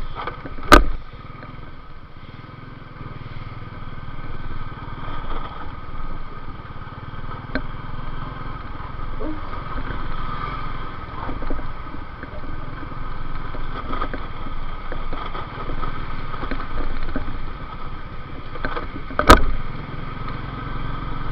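Motorcycle engine running steadily while riding, with two sharp loud knocks on the microphone, one about a second in and one near the end.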